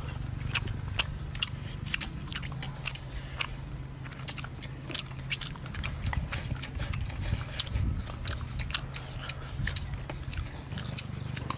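Close-up eating: a person chewing and smacking through mouthfuls of rice and braised pork, with many quick wet clicks and chopsticks tapping the bowl as rice is shovelled in, over a steady low hum.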